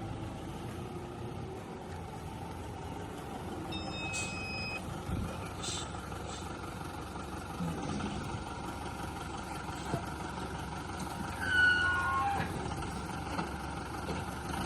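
Steady background rumble. A brief high tone comes about four seconds in, and a quick run of short tones falls in pitch about twelve seconds in, the loudest moment.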